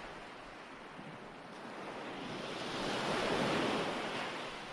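Ocean waves washing onto a shore, one wave swelling to a peak about three seconds in and then ebbing.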